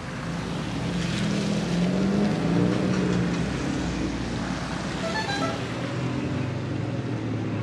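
Car engine heard from inside the cabin in slow, stop-and-go traffic, its hum rising and falling with light throttle and then settling to a steady idle about six seconds in.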